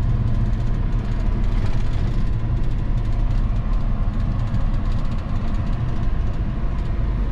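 1990 Ford F-150 with a 5.0-liter (302) V8 driving along, a steady low engine and road drone with no change in pace.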